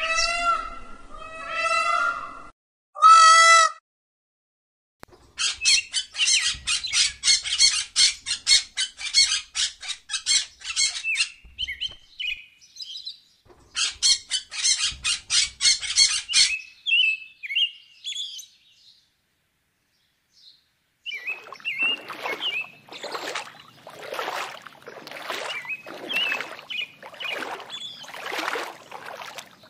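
Peacock giving a few loud, wavering calls, then a bird's fast run of short harsh calls, about five a second, that stops and starts again. Then water splashing in an even rhythm of about two splashes a second, with faint bird chirps over it.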